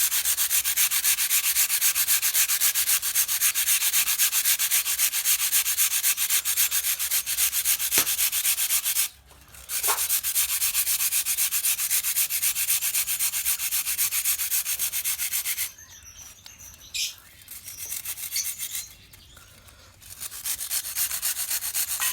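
Dry biscuits being ground to a fine powder by fast, steady rubbing: a dense scratchy rasp. It breaks off for a moment about nine seconds in, then stops again for a few seconds after the middle before starting once more.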